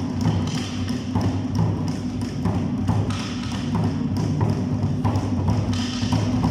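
Live Awa Odori music: drums and percussion beating a steady, quick rhythm, about two strokes a second.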